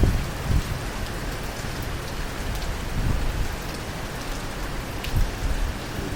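Rain falling steadily in a thunderstorm, with a low rumble underneath.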